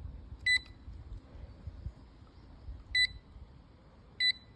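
Three short electronic beeps from a doorbell button being pressed, about half a second, three seconds and four seconds in. The bell beeps but does not work.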